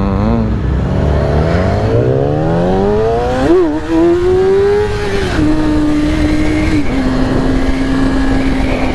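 Yamaha R6's inline-four engine accelerating on the road: the revs climb steadily for about three seconds, then drop in steps as it shifts up, once about halfway through and again a couple of seconds later, before it settles to a steady cruise. Wind rush runs underneath.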